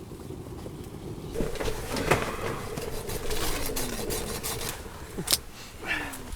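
Split firewood being handled: a run of knocks, clicks and scrapes that begins about a second and a half in, with two short falling squeaks.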